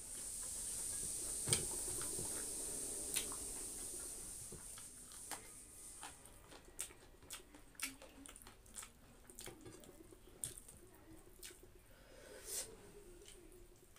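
Close-miked eating by hand: wet chewing and many short lip smacks as mouthfuls of rice, dal and meat are eaten. A steady hiss runs through the first few seconds.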